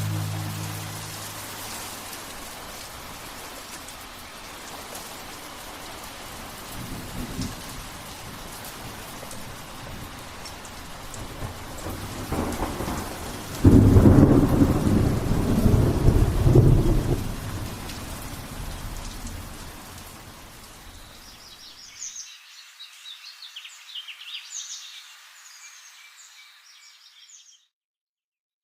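Steady rain, with a loud rumble of thunder that breaks in suddenly about halfway through and dies away over several seconds. Near the end the low sound drops out and only a few high chirps remain before the sound cuts off.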